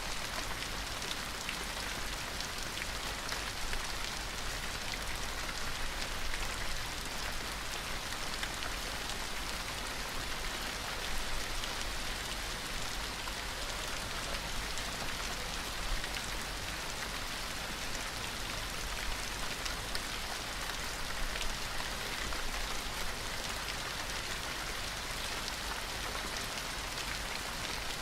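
Steady rain falling, an even hiss of drops with scattered separate drop ticks.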